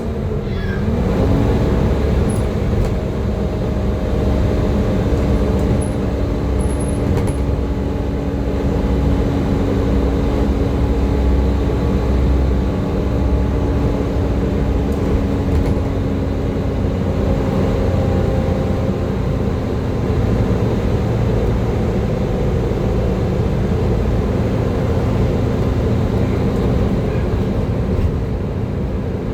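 Volvo B7TL double-decker bus's diesel engine and driveline running under way, a steady low drone with a whine that rises briefly about a second in and then holds level, the 'hoover' whine of this bus.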